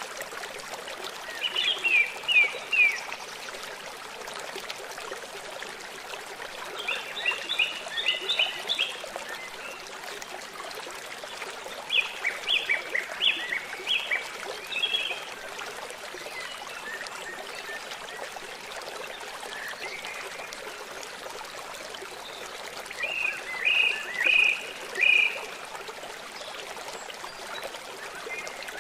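Running stream water flowing steadily, with a songbird singing four short phrases of quick, clear notes over it.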